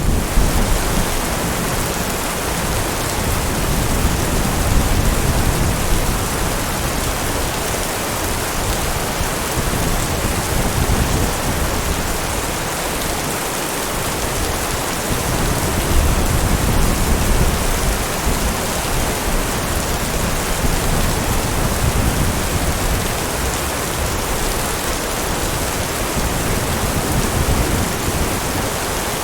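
Heavy rain falling steadily, with low thunder rumbling and fading now and then.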